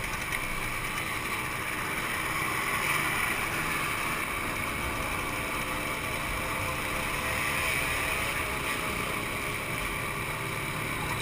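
Two-stroke motorcycle engines running, a steady mix with no single engine revving out.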